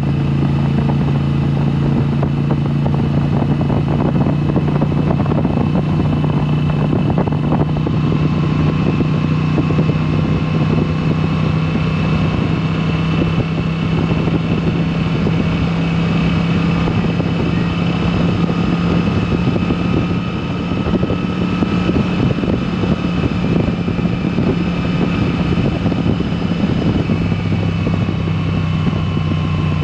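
2022 Moto Guzzi V7 Special's air-cooled transverse V-twin running at a steady engine speed through a Mistral exhaust with the dB killers removed, with a slight dip in loudness about two-thirds of the way through.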